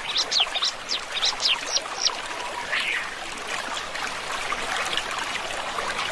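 Water trickling and running in a stream. A bird sings a series of quick, high, downward-sweeping notes over the first two seconds.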